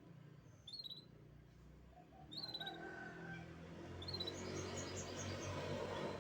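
Domestic canary singing: short high chirps with quick falling trills, then a run of rapid trilled notes, over a low steady background noise that grows louder partway through.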